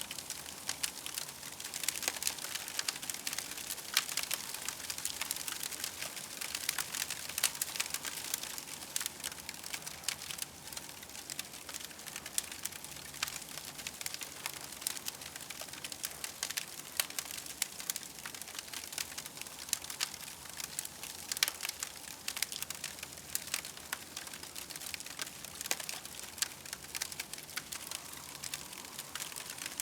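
Campfire crackling, with frequent small sharp pops over a steady hiss.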